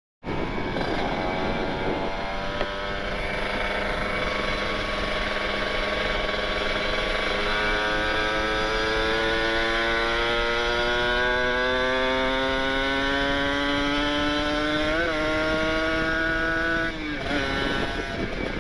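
Kawasaki Ninja 150RR two-stroke single-cylinder engine through an Aitech carbon-kevlar aftermarket exhaust, under way. The engine pitch climbs steadily for about ten seconds as the bike accelerates, flicks briefly, then drops sharply near the end.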